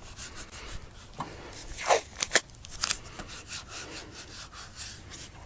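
Rubbing and scraping as a windshield is shifted into position by hand, with a few sharper scrapes about two seconds in.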